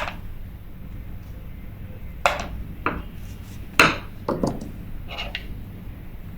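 Light metal clicks and taps from small parts and a tool being handled while a Daiwa 1000X spinning reel is taken apart, about six short knocks spread over several seconds.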